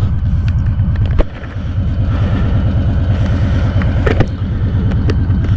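Harley-Davidson Fat Boy's Milwaukee-Eight 114 V-twin idling at a stop, a steady low pulsing, with a few sharp clicks as the camera is handled.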